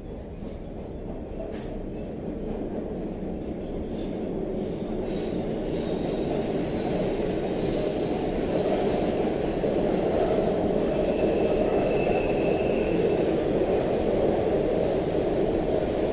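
Subway train running on the rails, its rumble growing steadily louder over the first several seconds and then holding steady. A faint high-pitched wheel squeal comes in about eleven seconds in.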